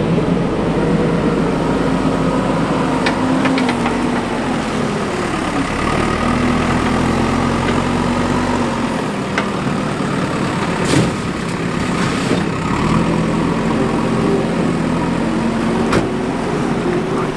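Heavy diesel engine of construction machinery running, its speed falling and rising several times as it works, with a sharp metallic clank about eleven seconds in and a lighter one near the end.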